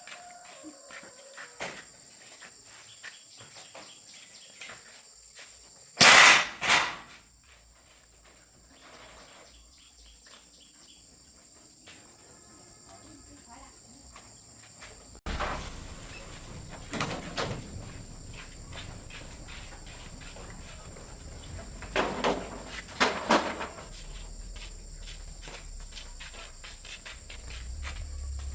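Steady, high-pitched chirping of insects, crickets by the sound of it, running throughout. It is broken by two loud knocks in quick succession about six seconds in, a few lighter knocks near the middle, and another close pair of loud knocks a little later.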